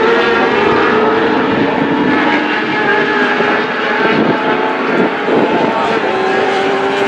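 Racing engines droning at a nearly steady pitch, heard through trackside broadcast audio.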